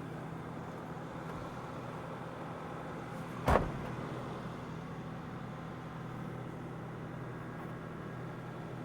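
Excavator engine running steadily, with one sharp metallic clank about three and a half seconds in.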